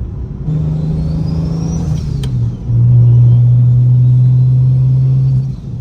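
Straight-piped single-turbo BMW N54 straight-six engine, first running with a turbo whistle that rises and then falls, then about a second in from the halfway point loud and held at a steady pitch for about three seconds, the way rolling anti-lag holds the revs while boost builds, before dropping off near the end.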